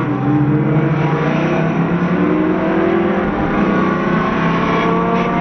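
Twin-turbo Ford Mustang engine accelerating hard, its pitch rising steadily.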